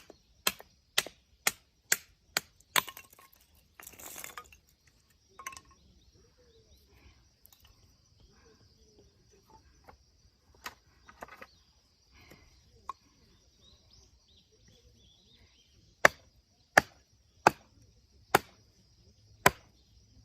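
Firewood being split: sharp chopping strikes of a blade into wood in quick runs of about two a second, with a pause of scattered single knocks in the middle before the rapid strikes start again.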